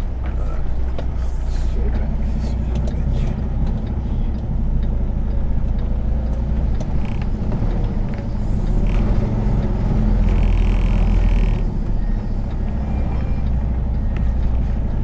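Semi truck's diesel engine running at low revs during slow maneuvering, a steady low rumble. A brief higher-pitched tone sounds a little past two-thirds of the way through.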